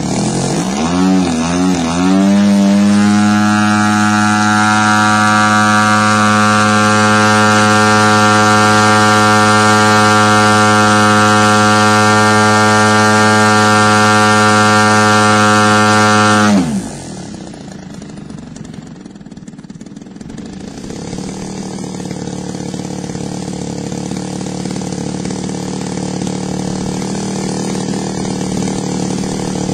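3MM TOC model aircraft engine opened up from idle about two seconds in, held at a steady full-throttle pitch for about fourteen seconds, then cut sharply back to a lower, quieter idle. This is a full-throttle RPM check while the high-end needle is being leaned out during carburettor tuning.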